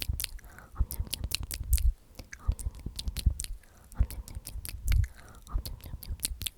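Close-miked ASMR whispering of 'omnomnom' repeated over and over, full of wet mouth clicks and lip smacks.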